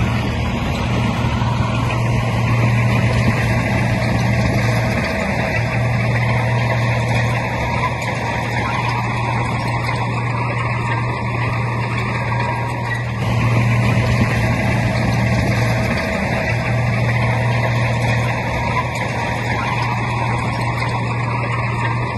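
Heavy diesel engine of earthmoving machinery running steadily with a strong low hum, which dips briefly twice.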